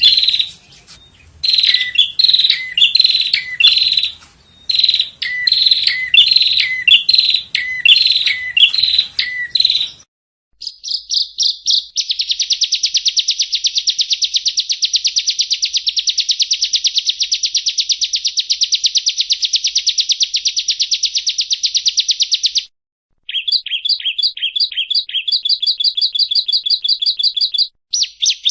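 Yellow-bellied prinia (prenjak rawa) singing. For about ten seconds it repeats short phrases of falling notes. Then, after an abrupt change with a moment of silence, a long, very fast, even trill runs for about ten seconds, followed by further rapid trills after a short break.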